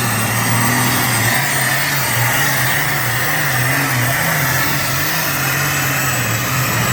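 Modified pulling tractor's engine running hard at high, nearly steady revs during a pull, its pitch wavering slightly, with a heavy hiss of noise over it.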